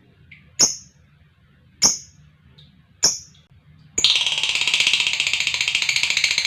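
Lovebird calling. Three short, sharp chirps come about a second and a quarter apart, then about four seconds in it breaks into a long, rapid, continuous chattering trill: the 'ngekek' that lovebird keepers prize.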